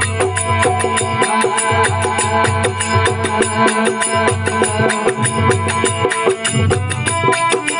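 Instrumental passage of a Rajasthani desi bhajan: a steady, fast percussion beat over held string tones from the folk veena.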